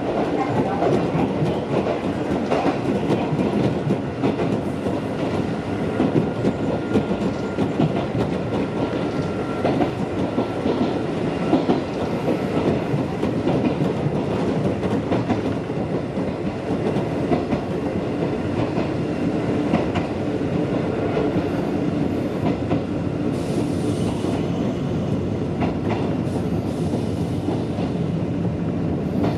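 Mizuma Railway electric train running along the line, heard from inside the front car: a steady running rumble with the wheels clicking over the rail joints.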